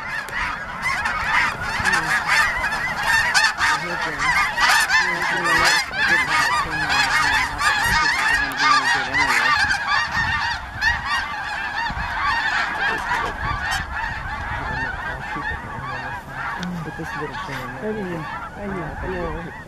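A large flock of snow geese and Ross's geese calling together: a dense, continuous chorus of overlapping high-pitched honks, a little quieter toward the end.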